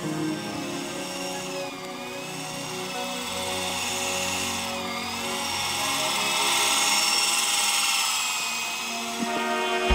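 Walkera RC helicopter flying, its motor and rotor giving a high whine. The whine dips and rises in pitch twice as the throttle changes, and grows louder for a while in the second half.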